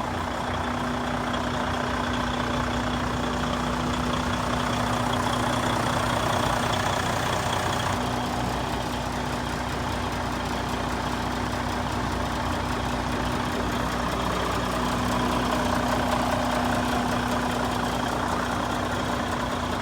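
Heavy truck's Detroit diesel engine idling steadily.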